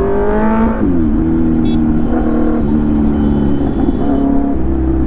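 Motorcycle engine accelerating under way: its pitch rises over the first second, then drops sharply with an upshift and settles. It steps down again a few more times as gears change, over a steady low rumble.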